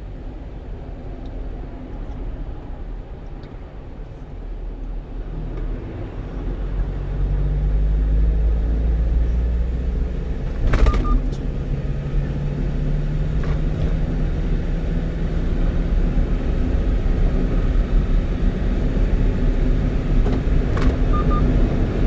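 Engine and road noise inside the cab of a 1-ton truck on the move, growing louder from about five seconds in as the truck picks up speed. A few short, sharp clicks come through near the middle and the end.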